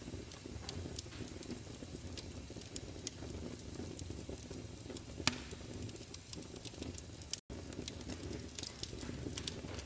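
Wood fire crackling in a fireplace: a steady low rumble of flames with scattered sharp pops, one louder pop about halfway through. The sound cuts out for an instant about three quarters of the way through.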